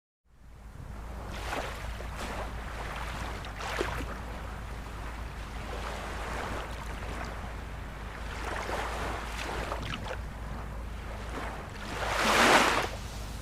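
Ocean surf washing onto a shore: continuous wave wash that fades in at the start and swells and recedes, with one louder wave breaking near the end, over a steady low rumble.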